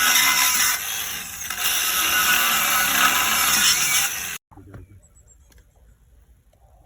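Disc cutter (angle grinder) running and cutting into a tubular gate post: a loud, harsh grinding with a steady motor hum underneath. It stops suddenly about four and a half seconds in, leaving only faint handling sounds.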